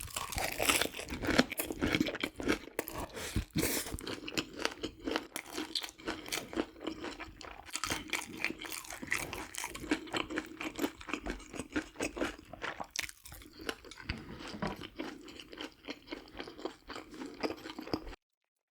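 A person chewing and crunching food close to the microphone: continuous wet crunches and smacks, stopping abruptly near the end.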